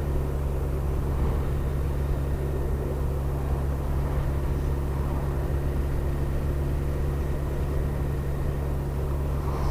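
Kawasaki GTR1400's inline-four engine running at a steady speed while cruising, mixed with wind and road noise. The engine note holds even, with no revving or gear change.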